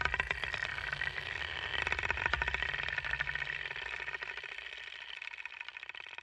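A car engine running with rapid, even firing pulses, growing louder to about two seconds in and then fading away as it passes.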